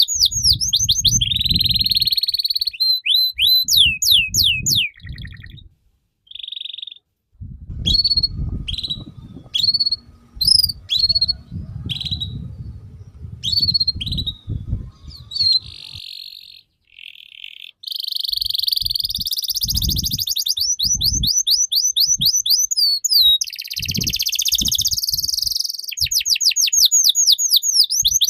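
A songbird singing a loud, varied song of rapid runs of whistles falling in pitch, buzzy trills and short sharp chips, with low thumps mixed in.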